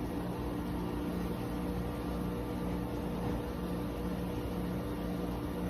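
Hisense 6000 BTU portable air conditioner running: a steady hum of fan air with a couple of fixed motor tones and a low tone that pulses evenly on and off.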